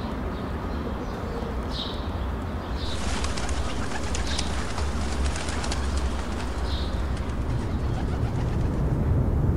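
Birds calling in short bursts, several times, over a steady low rumble, with a crackling noise from about three seconds in.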